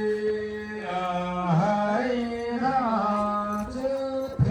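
Male voice chanting a Gurung ritual text in long held notes with slow pitch glides, played through a loudspeaker system. A short low thump near the end.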